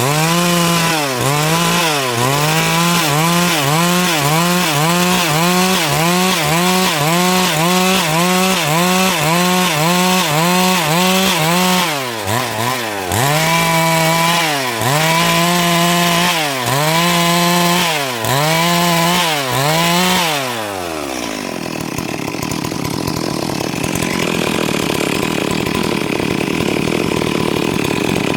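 Stihl MS 382 two-stroke chainsaw cutting wood, its engine note dipping and recovering in a steady rhythm of about one and a half times a second, with a brief break about twelve seconds in. About twenty seconds in the revs fall away and a quieter, steadier running sound is left.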